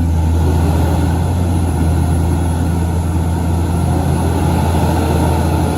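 Heavy diesel engine running steadily, a loud, even, low drone with no change in speed.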